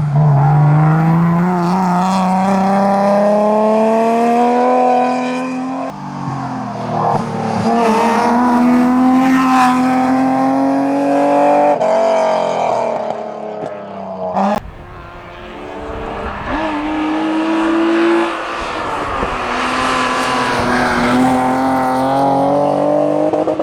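Racing car engine at hard throttle, its pitch climbing steadily in each gear and dropping sharply at each gear change or lift, about every four to six seconds.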